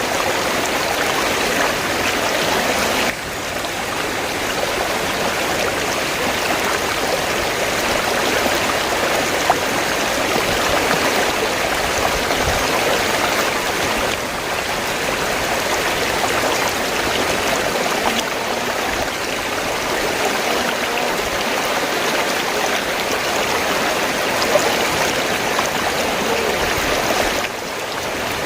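River water flowing steadily, an even rushing and splashing, with small drops in level about three seconds in and near the end.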